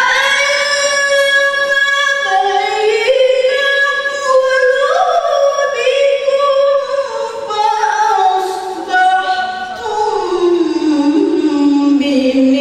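A woman's voice reciting the Quran in the melodic tilawah style. It holds long notes with ornamented steps up and down in pitch, and settles on a lower held note near the end.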